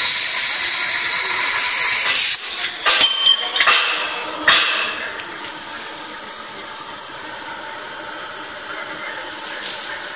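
Plasma cutting torch on a pipe-cutting machine hissing steadily, then cutting off suddenly about two seconds in. Several sharp metallic clinks follow over the next couple of seconds, then only a low steady background.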